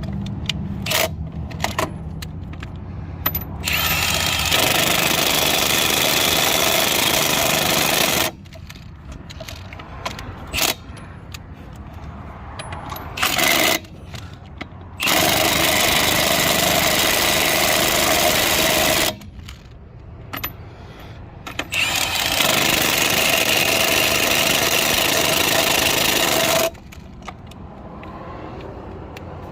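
Impact wrench on a low torque setting hammering lug nuts tight on an RV's dual rear wheel: three bursts of about four seconds and one short one, with clicks and handling noise between them.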